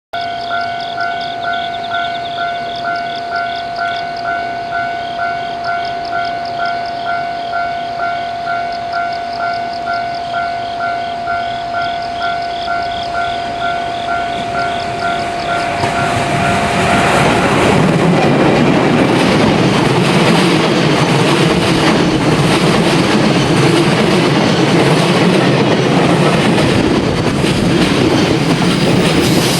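Electronic level-crossing alarm ringing in a steady pulse about twice a second. About 16 seconds in, a train passes with loud rolling noise and wheels clattering over the rail joints, drowning out the alarm.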